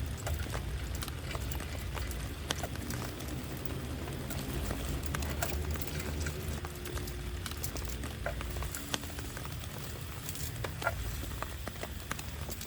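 Raindrops pattering irregularly on a camp tarp or tent, as sharp scattered ticks over a steady low rumble of heavy rain.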